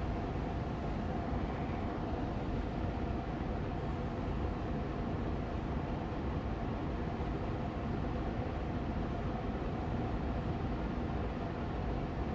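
Air purifier fan running steadily on medium speed: an even rushing of air with a faint hum from the motor.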